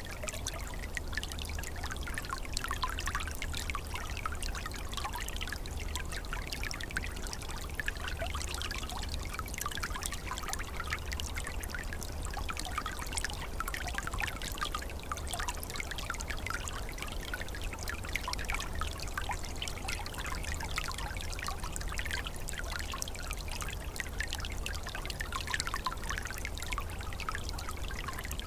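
Small forest stream trickling and babbling steadily, a dense patter of small splashes, with a low steady rumble underneath.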